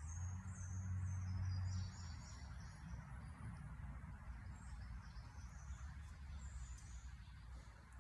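Faint, high-pitched chirping of insects over a low hum that is strongest in the first two seconds.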